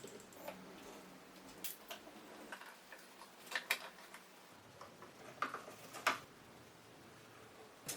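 Scattered light clicks and taps at irregular intervals, a few of them sharper, against a quiet room.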